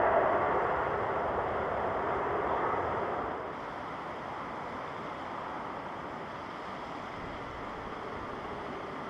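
Jet airliner noise dying away over the first three seconds, dropping off fairly abruptly, then a steady, even rush of wind-like ambient noise.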